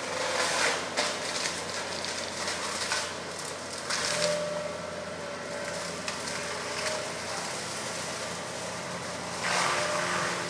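Excavator engine running steadily, with three louder, noisier surges: at the start, about four seconds in, and near the end.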